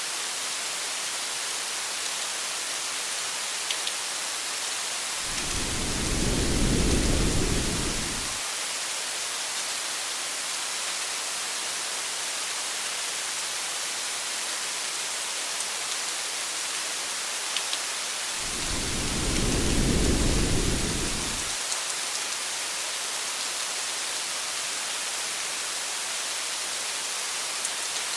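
Steady rain falling on a car, a constant hiss with a few faint drop ticks. Twice, about thirteen seconds apart, a low thunder rumble swells and fades over about three seconds.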